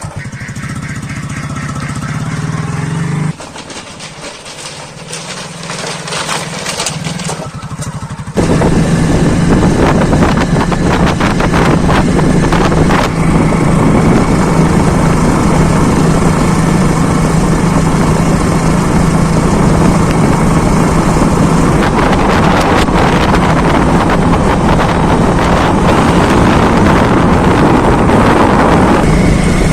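Swaraj 855 FE tractor's three-cylinder diesel engine running while the tractor works a rotavator. It is quieter for the first several seconds, then steady and much louder from about eight seconds in.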